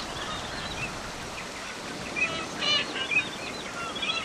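Several wild birds giving short, quick chirping calls, busiest about two to three seconds in, over a steady background hiss.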